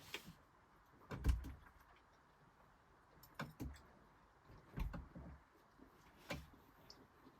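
A handful of separate knocks and clicks, some with a dull thump, scattered over several seconds.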